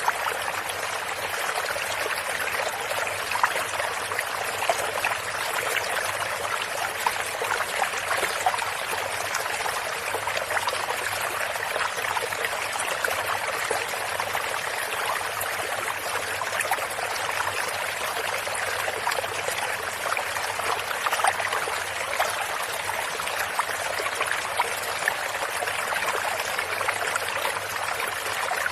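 Stream water running and trickling, a steady splashy rush with many small bubbling flecks and no change in level.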